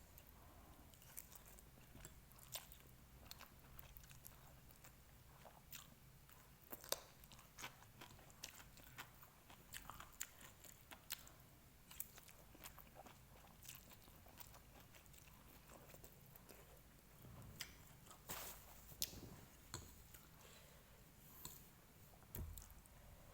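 A person eating instant noodles, chewing quietly with many small, irregular clicks and smacks.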